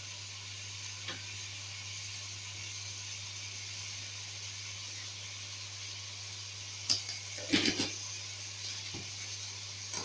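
Onion and spice mixture sizzling steadily in a pan on the stove, with a few short knocks of a utensil, most of them about seven to eight seconds in.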